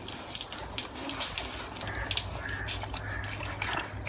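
Water splashing and dripping, with many irregular small clicks and splashes.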